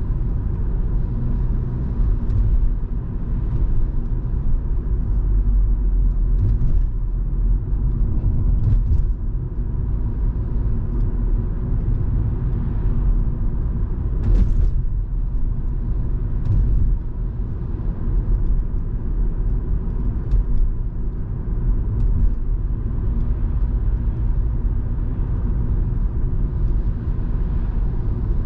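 Volvo V70 2.5T's turbocharged five-cylinder engine and road noise, heard as a steady low rumble from inside the moving car, with a few light ticks scattered through.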